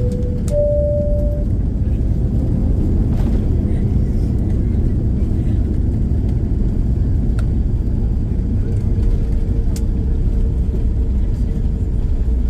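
Cabin noise inside a Boeing 787-9 during landing: a steady low rumble of engines and airflow, with a brief steady tone in the first second or so and a few faint clicks.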